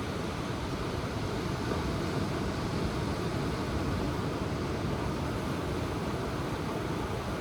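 Ocean surf heard as a steady low rumble, with no single wave breaking out of the wash.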